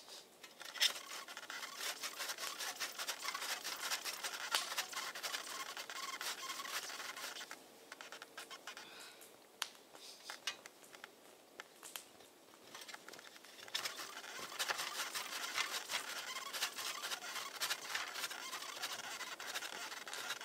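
Busy rustling and scratching made of many quick small clicks, stopping for a few seconds midway and then resuming.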